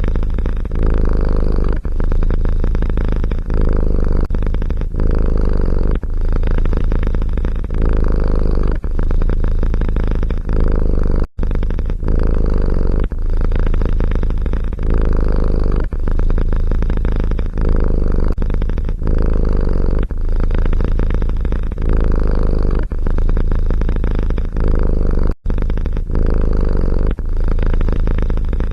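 Domestic cat purring loudly close up, in steady cycles that ebb about once a second. The sound cuts out briefly twice.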